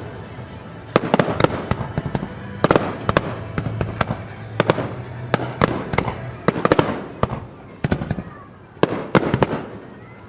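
Aerial fireworks shells bursting overhead: a dense run of sharp bangs and crackles, some single and some in quick clusters, each trailing off with an echo.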